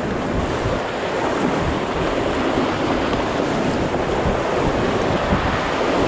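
Steady rush of river water around a moving boat, with wind buffeting the microphone.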